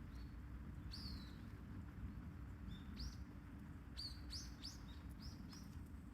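Small bird chirping: short high notes, one every second or two, then a quicker run of about six from about four seconds in, over a steady low rumble.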